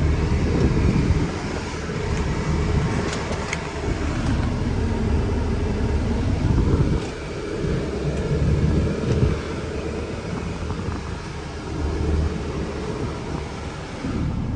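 2004 Dodge Ram 2500's 5.9-litre Cummins inline-six turbo diesel pulling the truck away, heard from inside the cab. The engine note climbs and drops back several times as the automatic shifts up through the gears.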